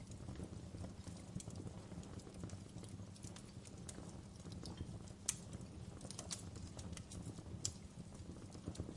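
Wood fire in a fireplace crackling: a steady low rumble of burning with scattered sharp snaps and pops, two louder pops about five and a half and eight seconds in.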